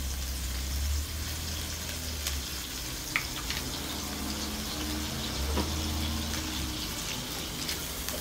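Minced pork sizzling steadily in hot oil in a wok, with a low hum underneath and a few light clicks.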